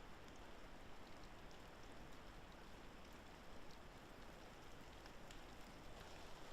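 Faint, even hiss of wet woodland after rain, with scattered light ticks of water dripping from the trees.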